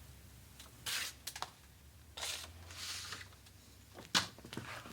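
Soft, intermittent rustling and crinkling handling noises, with a sharp click about four seconds in.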